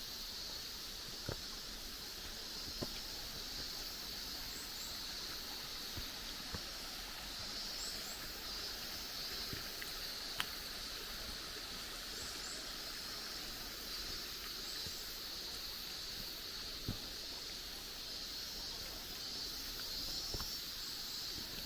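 Steady high-pitched insect chorus that swells and fades slightly, with a few scattered sharp clicks and taps, such as footsteps on the rocky trail.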